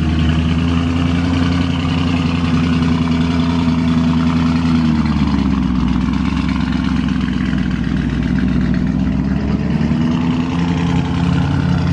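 Car engine running steadily at low revs close by. Its pitch eases down about five seconds in and comes back up near the end.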